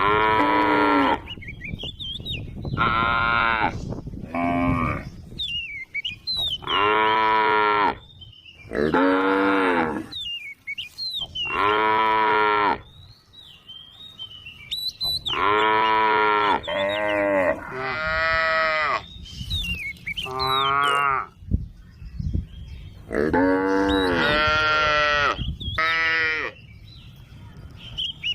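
Cows mooing over and over, a dozen or so calls of about a second each, some overlapping from more than one animal. Faint bird chirps come through between the calls.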